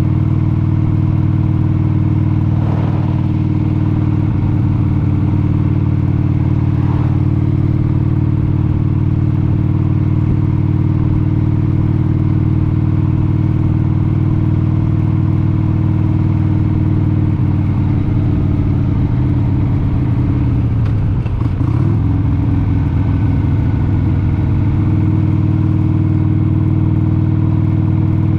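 1996 Harley-Davidson XLH883 Sportster's air-cooled 883 cc V-twin engine running at a steady cruise while riding. About two-thirds of the way through, the engine note briefly wavers and shifts, then settles again.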